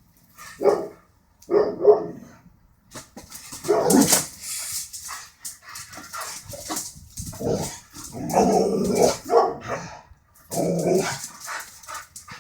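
Border collie barking repeatedly, in short barks and clusters separated by brief pauses.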